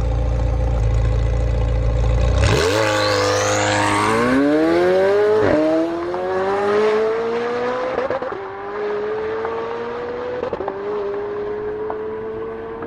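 McLaren 720S twin-turbo V8, tuned to about 900 hp, idling low on the start line and then launching hard about two and a half seconds in. It accelerates through the gears: the engine note climbs steeply, drops back at each upshift (about four shifts), and grows fainter as the car pulls away.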